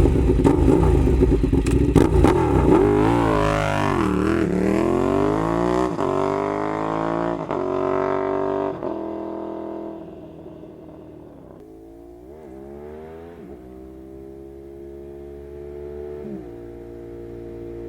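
Ducati superbike V-twin through a Toce slip-on exhaust: loud and rough at first, then accelerating hard, its pitch climbing through several gear changes before it fades away into the distance, with fainter rising pulls near the end.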